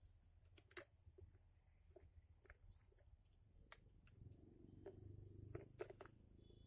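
High-pitched bird-call lure track playing from a small speaker, the same short phrase repeating about every two and a half seconds: a steady shrill note with quick falling chirps beneath it. It is played to attract a black-naped oriole. Faint scattered clicks.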